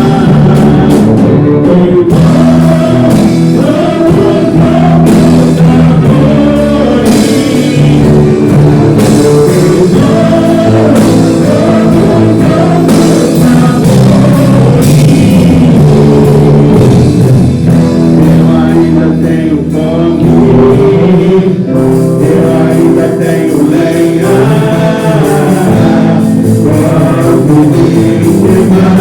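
Live worship band playing a gospel praise song, with singing over guitar and a steady band accompaniment.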